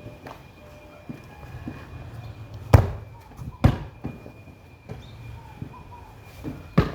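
Three sharp thumps: two about a second apart near the middle and one more near the end, over a faint steady high hum.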